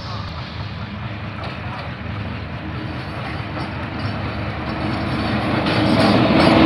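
Diesel-hauled express passenger train approaching at speed and passing close by, its rumble growing steadily louder. A steady hum comes in about halfway through and strengthens as the locomotive draws level.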